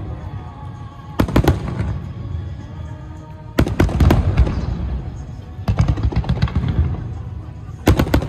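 Aerial fireworks shells bursting in four quick volleys of several bangs each, about two seconds apart, each volley trailing off in a low rumble.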